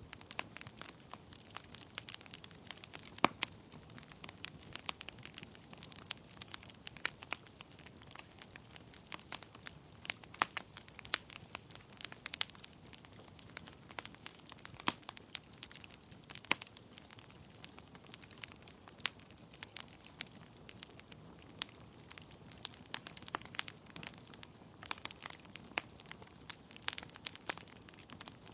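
Wood fire in a fireplace: burning logs crackling, with frequent irregular sharp pops over a soft steady hiss of flame.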